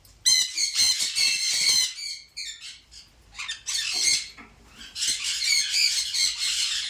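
Several birds chattering and squawking at once in busy bursts, with brief lulls between them.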